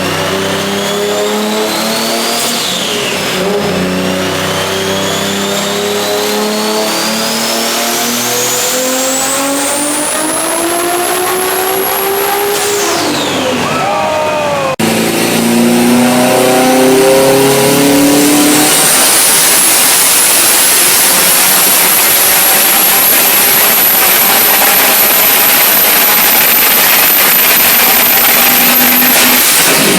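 Two cars revving hard on a dyno, one after the other with a cut about halfway. The first engine climbs through the revs, dips briefly near the start, then rises steadily and backs off. The second runs at high revs with a high, steady whine over the engine note until the end.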